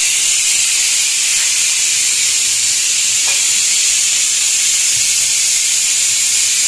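Chopped onions frying in oil in a pot: a loud, steady sizzling hiss.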